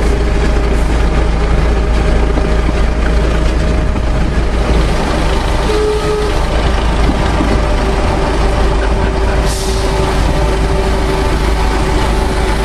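Narrow-gauge train running, heard from aboard a carriage: a steady loud rumble of locomotive and wheels, with a faint steady hum running through it.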